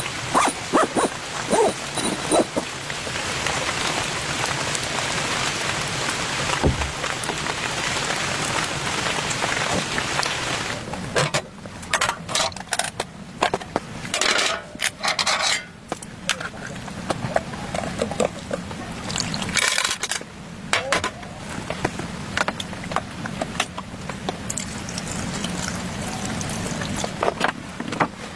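Heavy rain falling steadily. About ten seconds in, it is broken up by a string of short, irregular noises with quieter gaps between them, before settling back into a steady patter.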